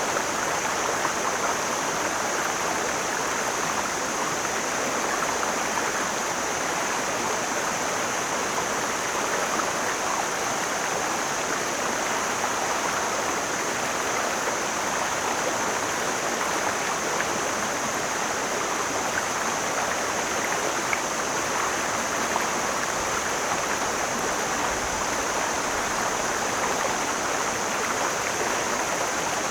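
Mountain stream flowing: a steady rush of water, with a thin, steady high-pitched hiss above it.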